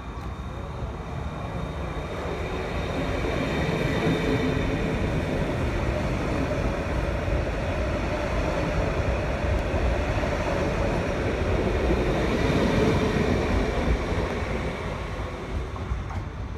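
Regional electric multiple-unit train passing through a station on the track beside the platform: a steady rumble of wheels on rails. It builds over the first few seconds, stays loud through the middle and eases off near the end.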